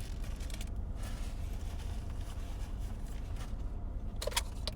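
Steady low hum inside a parked car, with a couple of brief sharp clicks near the end.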